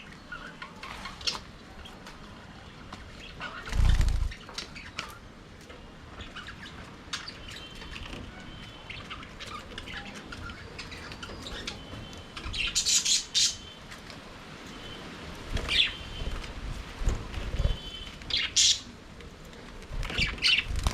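A flock of budgerigars chirping and chattering, with many short high calls that grow denser and louder in the second half. A dull low thump about four seconds in is the loudest moment.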